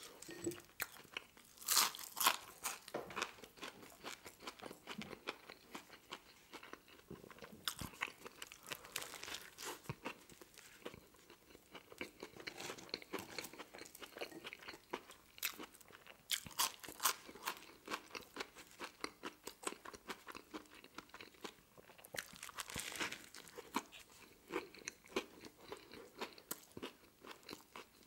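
A man chewing and crunching mouthfuls of french fries and a deli sandwich, with a steady run of wet clicks and crackles and a few louder crunchy bites.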